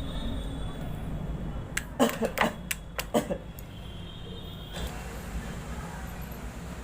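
A handful of sharp clicks and knocks, bunched between about two and three seconds in, over a steady low background hum.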